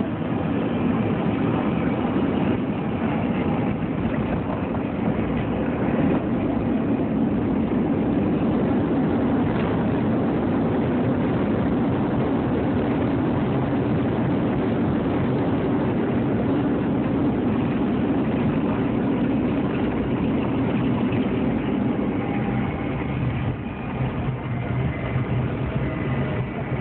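Steady, loud rumble of an airliner's jet engines and rushing air inside the passenger cabin during landing, easing slightly near the end.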